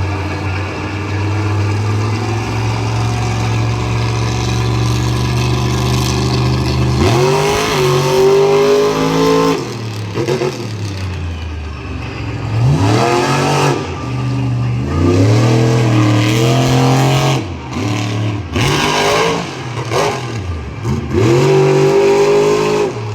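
Monster truck engine idling steadily, then, from about seven seconds in, revved hard five times in bursts, its pitch climbing with each rev.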